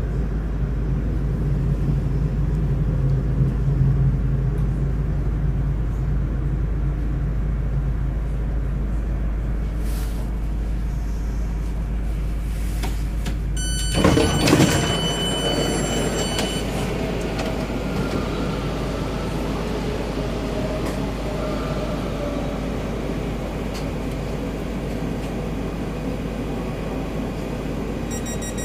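DBAG Class 423 S-Bahn electric train heard from inside the carriage, running and then braking to a stop. About halfway through comes a brief loud rush with a high squeal. After it the running noise is lower, and a faint electric whine falls in pitch as the train slows.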